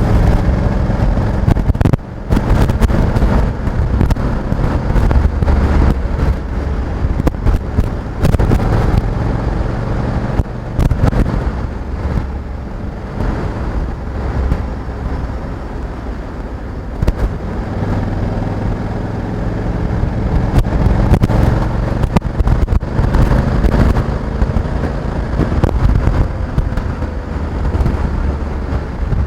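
Honda Africa Twin 1100 DCT's parallel-twin engine running under way, its revs rising and easing, with frequent short sharp crackles over it.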